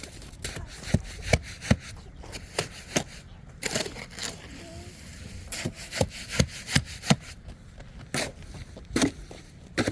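A series of irregular sharp wooden knocks and cracks, about fifteen over the stretch, unevenly spaced, like wood being handled, knocked or broken.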